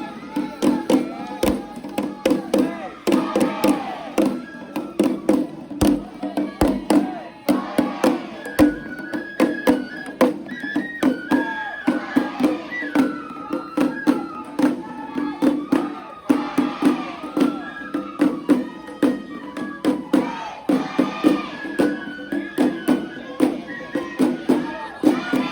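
Traditional Japanese festival music (matsuri-bayashi): a high melody stepping between held notes over rapid, sharp percussion strikes, with voices mixed in.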